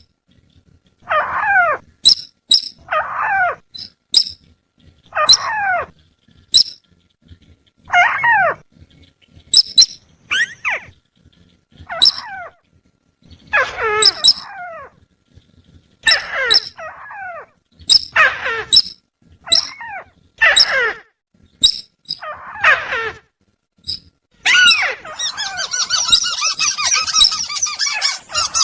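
Bird-lure recording of sintar and tikusan calls: a loud falling call repeats every second or so, with short high clicks between. About 24 seconds in, a denser, harsher chattering call takes over.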